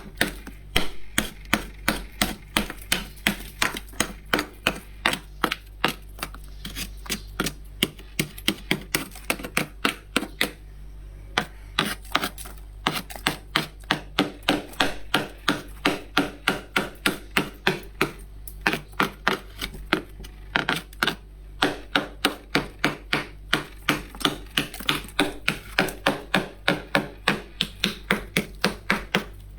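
Frost crunching in quick repeated strokes, about two or three a second, with a couple of short breaks.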